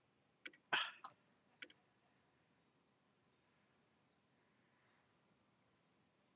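A few sharp clicks and taps about a second in, from handling the small parts of a vape tank during a coil rebuild. Crickets chirp faintly and steadily throughout, in an even repeating pattern.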